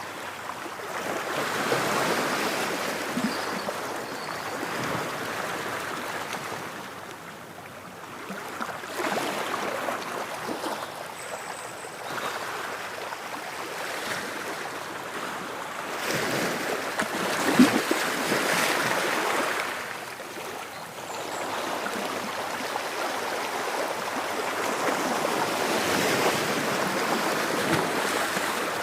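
Ocean waves breaking and washing up the shore, swelling and fading about every eight seconds, with one sharper crash a little past the middle.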